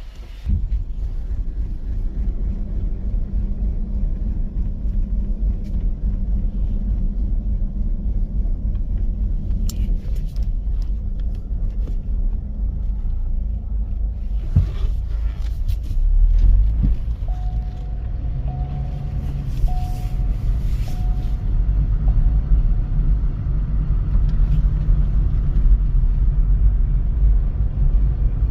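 Chevy Cobalt SS on a test drive: a steady low rumble of the engine and the car under way, swelling briefly about halfway through. Four short beeps, about a second apart, sound just after the swell.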